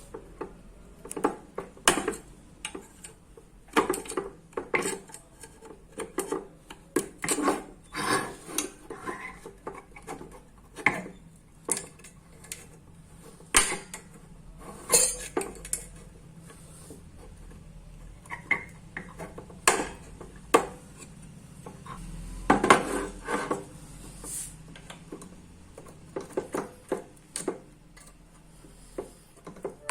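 Irregular metal clinks and knocks of hand tools on a microwave oven magnetron while it is taken apart for its magnets, with a few louder strikes scattered through.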